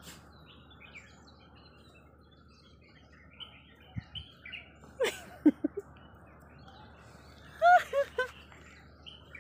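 Small birds chirping on and off in the background. A soft thump comes about four seconds in, and short pitched vocal calls about five and eight seconds in are the loudest sounds.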